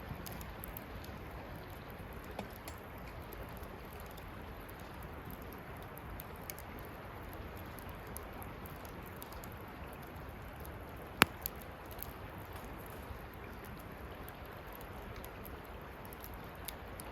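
Wood campfire burning with a steady hiss and small scattered crackles, and one sharp loud pop about eleven seconds in.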